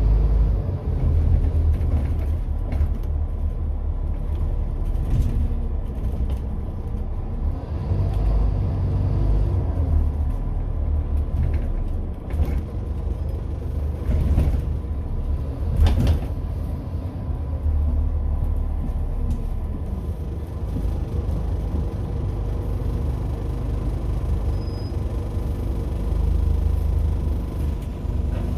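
Alexander Dennis Enviro 400 double-decker bus on a Scania N230UD chassis on the move: a steady low engine and road rumble, with scattered knocks and rattles and two sharper knocks about halfway through.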